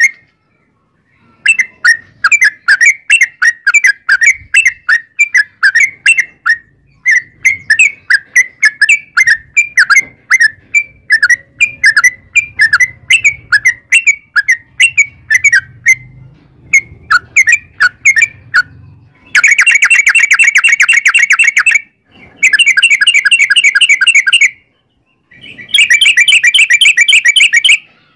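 Yellow-vented bulbul (trucukan) song: a long run of quick chattering notes. About two-thirds of the way through it switches to three long, very rapid rolling trills of a couple of seconds each, with short breaks between them.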